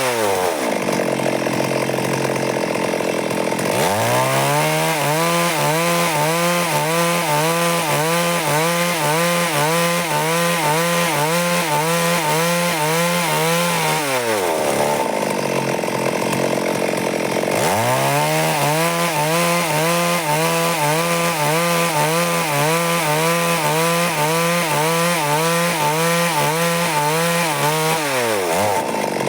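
Stihl MS382 two-stroke chainsaw ripping a log lengthwise into boards. It revs up into two long cuts, each held at full speed with the pitch wavering steadily under load, and drops back to a lower speed between them and again near the end.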